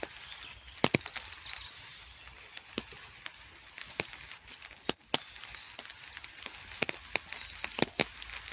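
Rain falling: a steady light hiss with irregular sharp taps of heavy drops landing close by.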